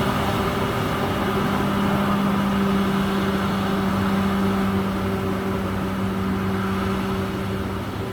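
Komatsu D68ESS crawler bulldozer's diesel engine running at a steady pitch while working, easing slightly in level near the end.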